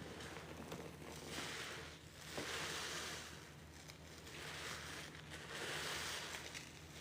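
A sudsy sponge loaded with pine cleaner paste being squeezed and rinsed, wet crackling suds and water running out in several surges of about a second each.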